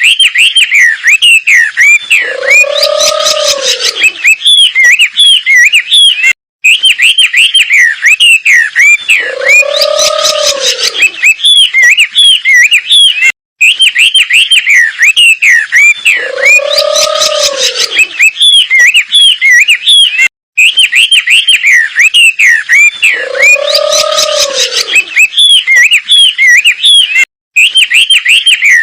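Wambi bird singing a fast, unbroken run of high chirping notes. A lower, arched note comes in partway through each cycle. The recording loops about every seven seconds, with a short dropout at each repeat.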